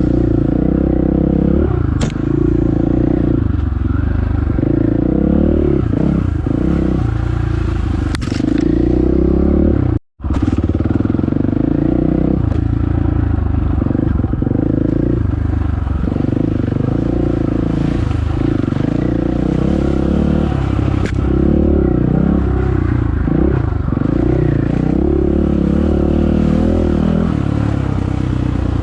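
Dirt bike engine running while being ridden along a trail, its pitch rising and falling with the throttle. The sound drops out for a moment about ten seconds in.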